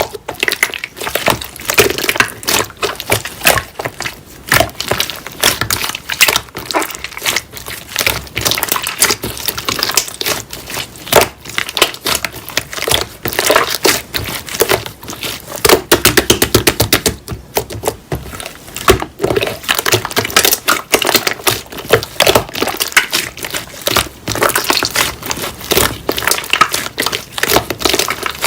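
Slime being squeezed, pressed and poked by hand, making a dense run of sticky clicks and crackling pops. A quick, evenly spaced string of clicks comes about two thirds of the way through.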